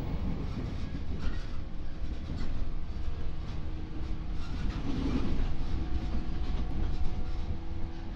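Train rumbling along the rails with scattered clicks and knocks of wheels on track, heard through the open doors of a stopped commuter car; a steady electrical hum joins in about halfway.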